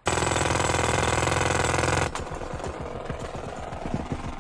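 A loud machine noise with a fast rattle starts abruptly, then drops to a quieter, irregular clattering about two seconds in.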